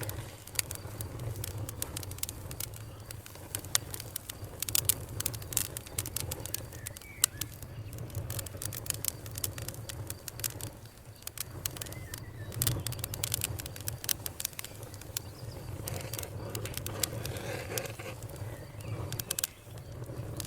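Wood fire crackling: a constant scatter of sharp pops and snaps over a low steady rumble, with two busier spells of crackling.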